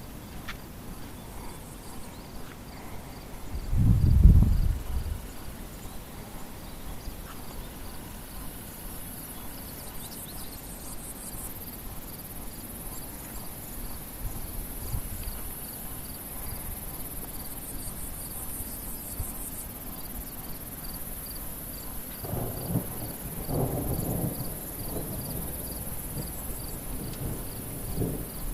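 Crickets chirping steadily while thunder rumbles twice: a short, loud low rumble about four seconds in and a longer, rolling one near the end.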